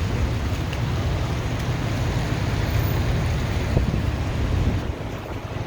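Wind buffeting the microphone in a snowstorm: an uneven, low rumbling rush with no distinct events.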